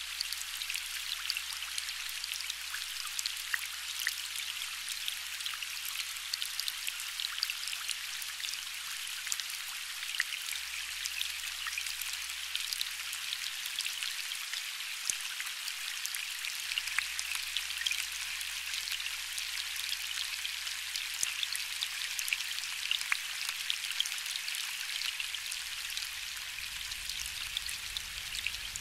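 Steady gentle rain: a dense even hiss full of fine drop ticks. A faint low rumble of distant thunder builds near the end.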